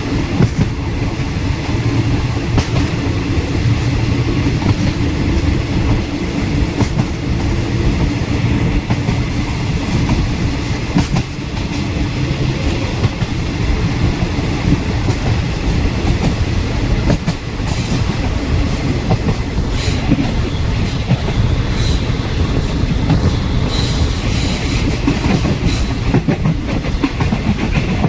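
Passenger train running along the line, heard from on board: a steady rumble of wheels on rail with continuous clattering. In the second half there are a few brief high wheel squeals.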